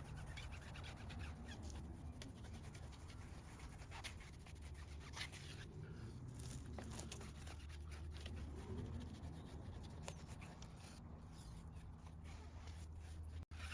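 Faint rubbing and scratching with scattered light clicks, from a car's surfaces being wiped by hand during detailing, over a low steady hum.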